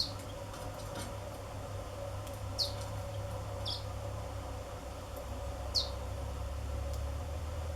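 Black-throated canaries giving short, high call notes, four single chirps that each slide downward, spaced a second or more apart, over a steady low hum.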